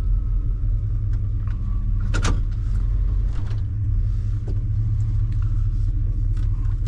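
Steady low rumble of a vehicle heard from inside the cab, with scattered light clicks and one sharp knock about two seconds in.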